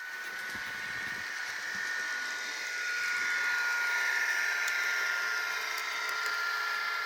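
Graham Farish N gauge class 158 model unit running, with a steady high whine and hiss that rise in pitch about three seconds in and settle near the end.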